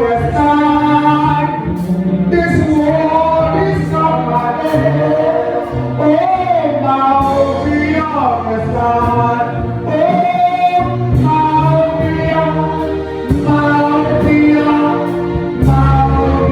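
Congregational gospel singing with instrumental accompaniment: voices holding sung notes over a steady bass line and a regular beat.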